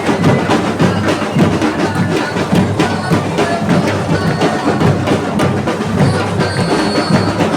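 Samba batucada percussion playing a fast, dense rhythm: deep bass drums under quick, sharp hits of smaller drums and wood-block-like strikes.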